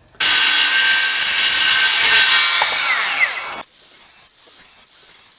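Power saw cutting into a wooden post, trimming it down to fit a post bracket. The loud cutting starts suddenly just after the start, lasts about three and a half seconds and cuts off abruptly, leaving a quieter noise.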